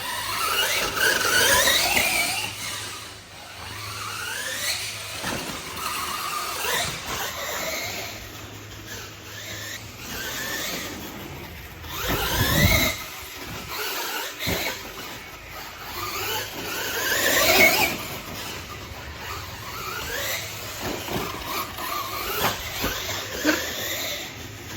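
Electric motor of a Losi LMT radio-controlled monster truck whining, its pitch rising again and again as the truck accelerates, over a steady hiss.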